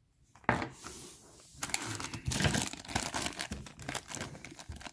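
Thin plastic bag crinkling as it is handled and opened by hand. A sharp crackle comes about half a second in, then denser crinkling from about a second and a half on.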